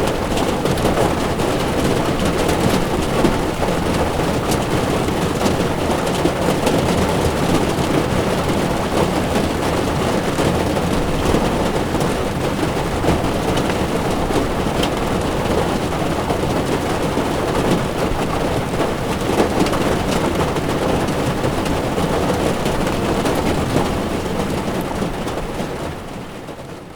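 Heavy rain drumming on a car's windshield, with the hiss of tyres on a wet road, a dense steady wash sprinkled with fine drop ticks. It fades out over the last couple of seconds.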